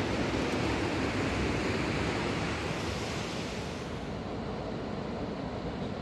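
Fast-flowing mountain river rushing, a steady noise of water that loses some of its hiss about four seconds in.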